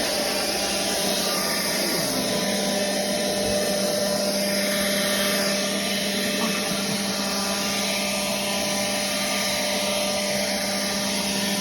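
Handheld leaf blower running steadily at a constant speed, a continuous motor hum with rushing air.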